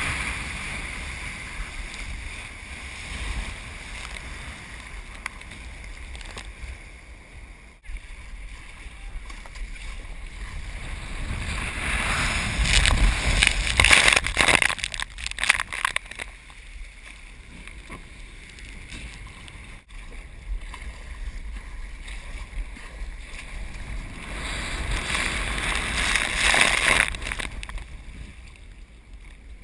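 Ocean surf rushing and breaking, swelling louder twice, with a steady low rumble of wind on the microphone.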